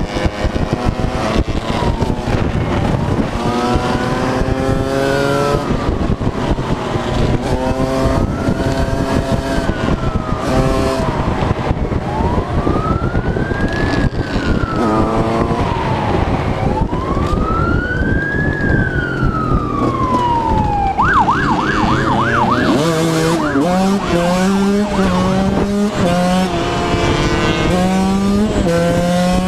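Emergency vehicle siren wailing in slow rises and falls, switching to a fast yelp about 21 seconds in. Underneath, a motor vehicle engine runs, rising in pitch over and over as it accelerates.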